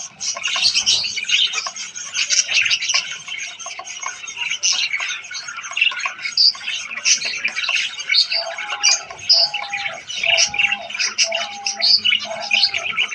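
A colony of zebra finches chattering, with dense overlapping short calls and chirps. About two-thirds of the way through, a bird starts a run of lower, evenly spaced calls, about three every two seconds.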